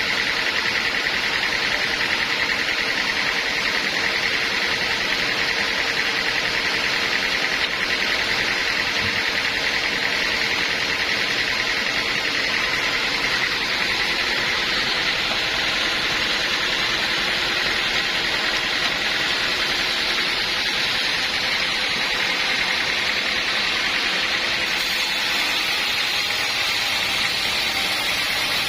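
Sawmill saw and its engine running steadily, a constant noisy drone with no breaks; it turns a little brighter and hissier about 25 seconds in.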